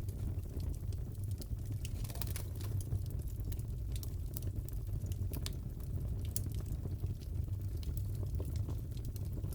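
Crackling fireplace: a steady low rumble of burning with irregular sharp pops and crackles throughout.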